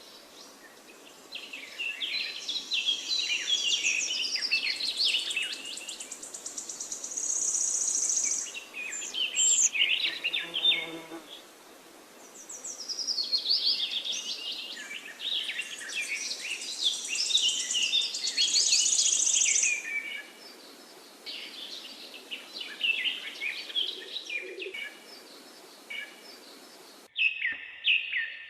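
Songbirds singing in long, rapid, warbling phrases with short pauses between them, over a faint steady hiss. A high, buzzy trill comes in now and then.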